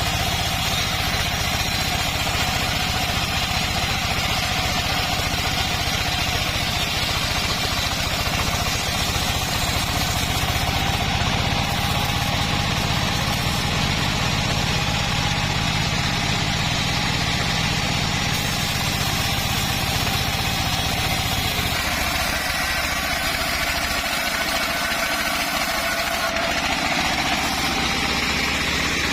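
Engine-driven homemade bandsaw mill running steadily, the engine's low hum under a broad sawing noise; the low hum thins out about 22 seconds in.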